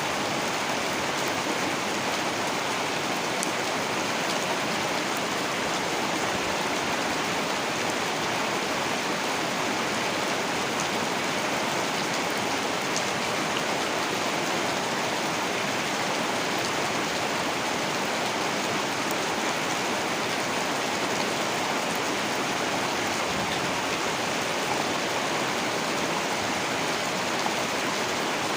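Heavy rain falling steadily, a constant dense patter with a few faint drop ticks.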